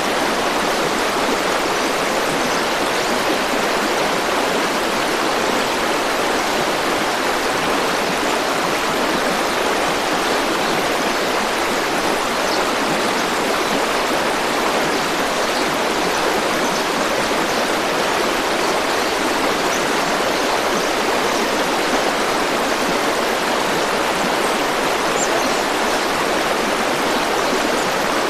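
River water flowing and rushing over rocks, a steady, unbroken sound.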